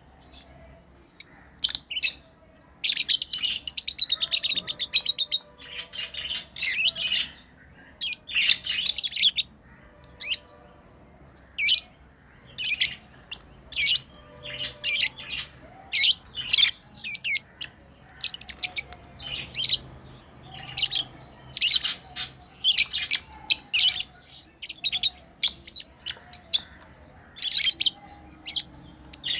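Pet lovebirds chirping: many short, sharp, high chirps in an irregular stream, with a couple of longer runs of rapid chatter in the first third.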